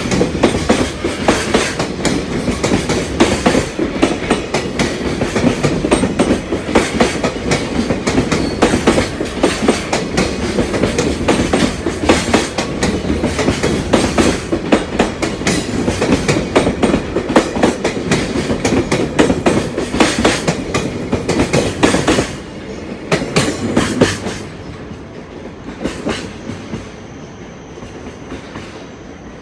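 Freight train of container wagons rolling past, its wheels clattering rapidly over the rail joints. About 22 seconds in the clatter drops away as the last wagons pass, with a last couple of wheel clacks a second or two later, leaving a quieter rumble.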